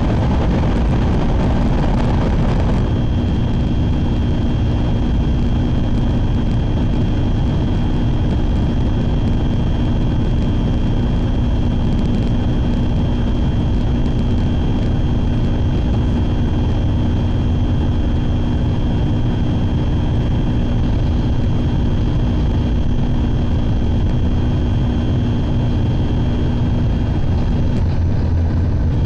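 Shinkansen bullet train running at speed, heard from inside the passenger cabin: a steady deep rumble and rush with a constant hum and a thin high whine, the hiss shifting slightly about three seconds in.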